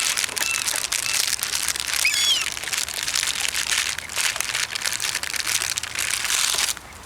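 A plastic bag, most likely a bread bag, being handled with steady crinkling and crackling that stops suddenly near the end. A few short high chirps sound in the first two and a half seconds.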